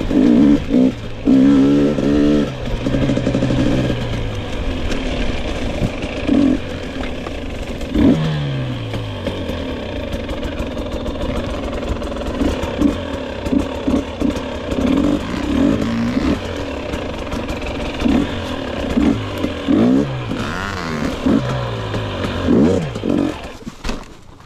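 2022 GasGas EX 250 two-stroke dirt bike engine being ridden hard, its pitch repeatedly climbing and falling as the throttle is opened and shut. Near the end the engine dies away, stalled on a pivot turn.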